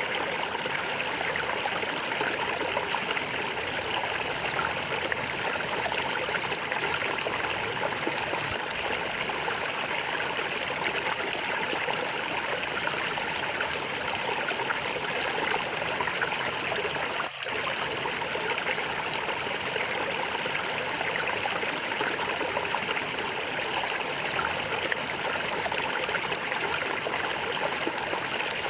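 Stream water flowing and gurgling steadily, with one momentary dip in level about two-thirds of the way through.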